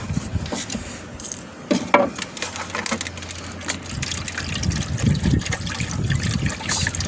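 Water splashing and pouring from a pet water bowl, with small knocks and rustling from handling, and a low rumble in the second half.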